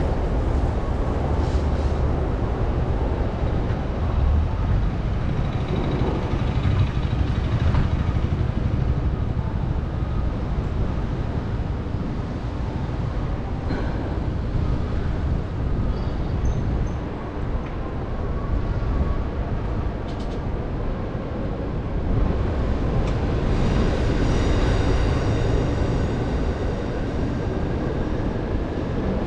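Steady city traffic and wind noise heard from a moving bicycle, with a higher whining tone in the last few seconds.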